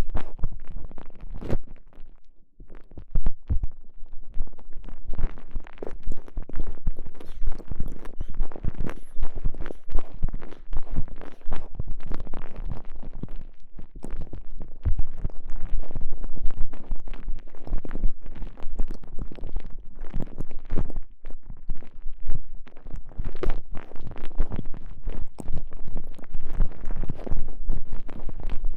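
A microphone pushed inside a TENGA Egg's stretchy elastomer sleeve, with the sleeve squeezed and rubbed around it. It makes close, uneven rubbing and crackling full of small pops, with a short lull about two seconds in.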